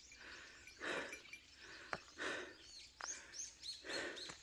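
Small songbirds chirping in short, high, rising-and-falling notes, more of them in the second half, over soft regular footsteps on a wet trail, about one every second and a half.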